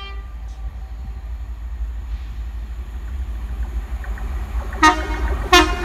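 Train running past with a steady low rumble; near the end its horn gives two short, sharp toots about two-thirds of a second apart.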